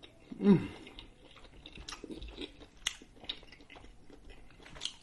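A person chewing a mouthful of grilled seafood, with many small wet smacks and clicks of the mouth. A short hummed 'mm' falls in pitch about half a second in.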